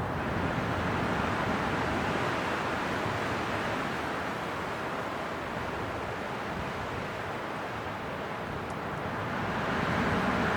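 Winter wind blowing steadily in a continuous rushing noise that swells and eases slowly, rising in a gust near the end.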